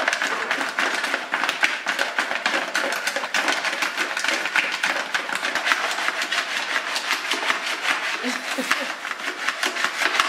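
Chicken frying in hot oil: a dense, steady crackling and spitting.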